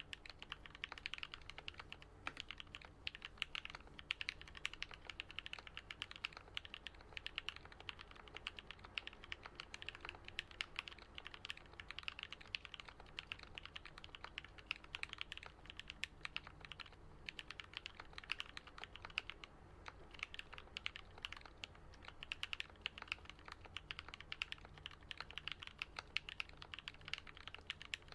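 Continuous fast typing on a custom Alice-layout mechanical keyboard with lubed and filmed Gat Yellow linear switches and lubed Durock stabilizers: a steady stream of keystrokes with a deep, muted "thock", pausing briefly about two-thirds of the way through.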